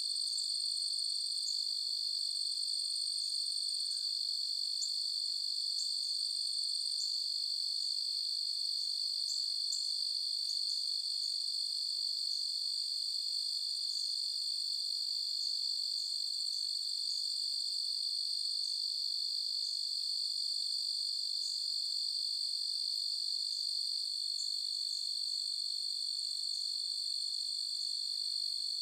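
Night chorus of crickets: a steady, unbroken high-pitched trill, with scattered short chirps sounding above it.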